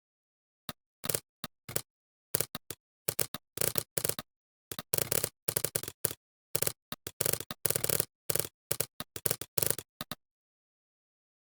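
Computer keyboard typing in quick bursts of keystrokes, with pauses of dead silence between bursts.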